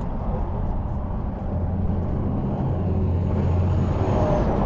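Vehicle noise: a low, steady rumble that grows a little louder after the halfway point.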